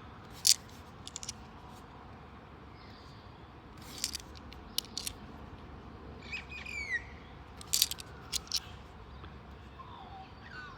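Outdoor birds calling, with descending whistled calls about six seconds in and again near the end, among several sharp clicks of coins being handled; the loudest click comes about half a second in.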